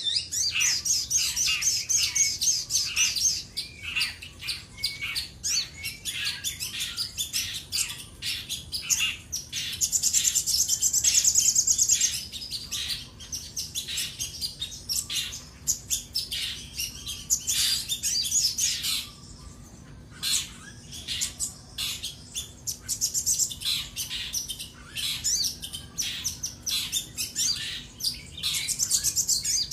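A sogon sunbird singing continuously in rapid high chirps and twittering trills, with a long fast trill about ten seconds in and a short pause later on. This is the energetic challenge song that hobbyists call 'gacor', sung as if calling out a rival.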